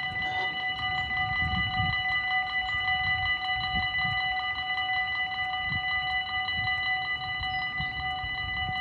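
Dutch level-crossing warning bell ringing steadily in a fast, even repeating pattern, under a low, uneven rumble.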